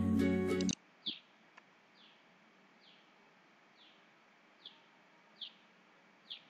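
Music cuts off abruptly less than a second in. After that, faint short falling chirps repeat about once a second over a low background hiss, like a small bird calling.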